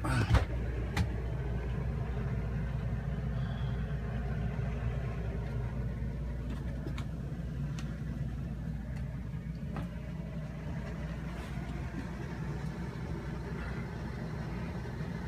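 Steady low mechanical hum of a cabin cruiser's onboard machinery running, with the cabin air conditioning on. A couple of sharp knocks sound in the first second, as someone steps down into the cabin.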